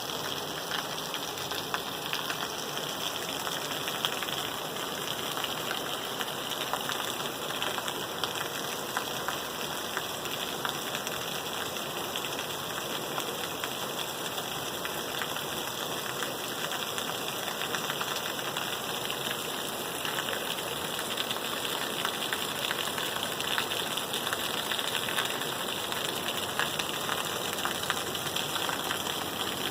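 Steady rain falling: an even hiss with a dense scatter of small drop ticks.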